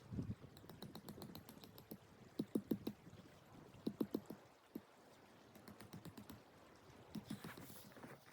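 Quick runs of short, dull knocks, three or four at a time, mixed with lighter clicks.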